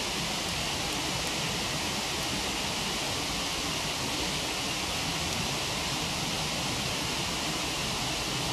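Waterfall rushing steadily, with a few faint crackles from a wood campfire.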